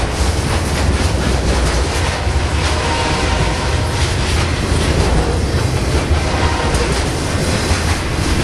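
BNSF intermodal freight train's flatcars loaded with highway trailers rolling past, a loud steady rumble with the clatter of steel wheels over the rail joints.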